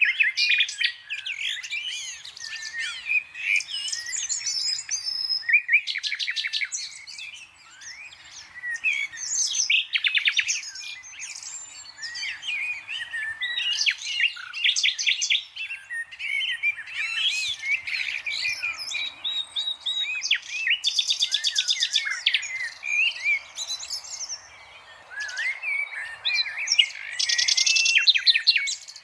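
Green parrot chirping and chattering: a continuous run of quick whistled chirps and warbles, broken by several short buzzy, rasping calls.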